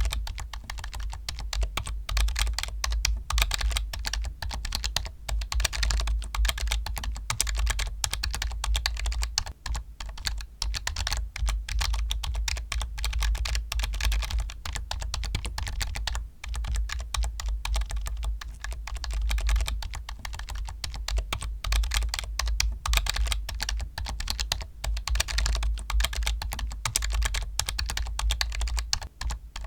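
Continuous fast typing on a computer keyboard: a dense run of key clicks, with brief lulls about ten and sixteen seconds in.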